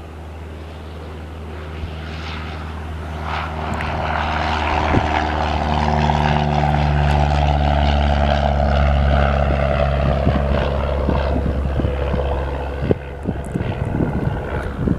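Cessna 172R Skyhawk's four-cylinder piston engine and propeller at full takeoff power, growing louder as the plane comes past, its pitch sagging slightly, then falling away. Wind buffets the microphone near the end.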